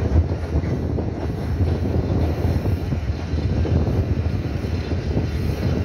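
Passenger train running along the track, a steady low rumble heard from an open carriage window, with wind buffeting the microphone.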